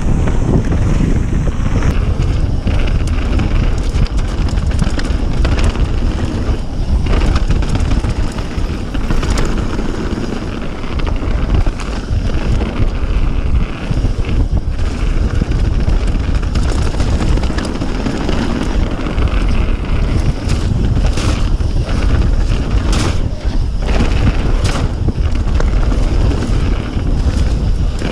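Wind rushing over a chest-mounted GoPro Session's exposed microphones at mountain-bike speed, a loud, steady low rumble, with frequent sharp knocks and clicks from the bike on the rough trail.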